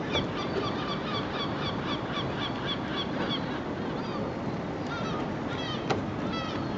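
Birds calling in a quick series of short, repeated notes, about three a second for the first three seconds, then more scattered, over a steady wash of outdoor background noise. A single sharp click comes about six seconds in.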